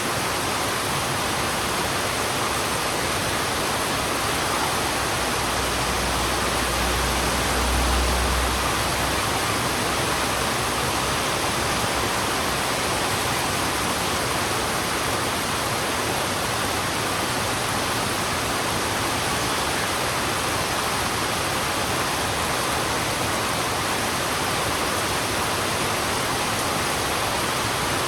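Heavy rain falling steadily, an even hiss. A low rumble swells briefly about a quarter of the way in.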